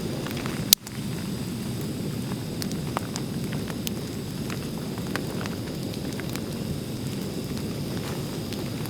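Wood fire crackling: scattered pops and snaps over a steady rushing noise, with one sharp crack just under a second in.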